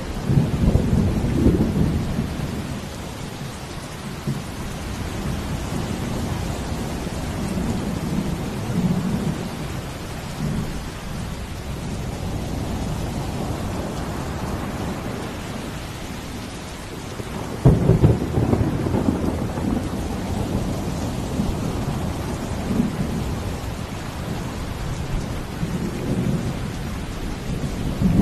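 Steady heavy rain with rolling thunder rumbling underneath. A sharp, loud thunderclap breaks in about two-thirds of the way through and rumbles on.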